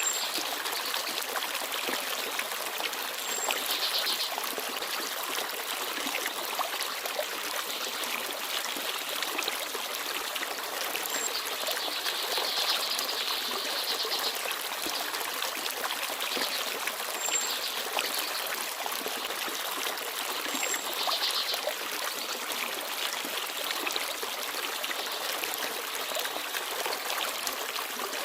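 Small forest stream babbling and trickling steadily over stones, its splashing swelling and easing every few seconds. A few very brief, high chirps of small birds sound now and then above the water.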